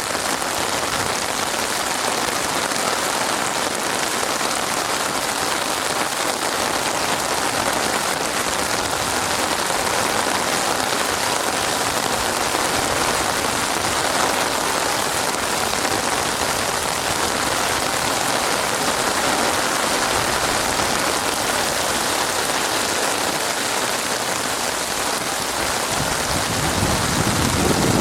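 Steady rain falling, an even hiss of drops on surfaces, with a low rumble building near the end.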